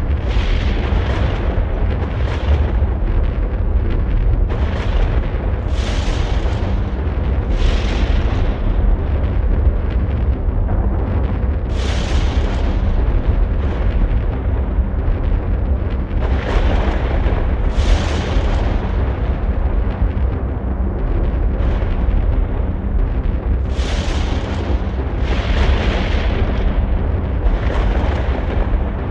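Loud, continuous deep rumbling noise with repeated surges of hiss every few seconds, a storm-like sound score played over the theatre's loudspeakers during a circus act.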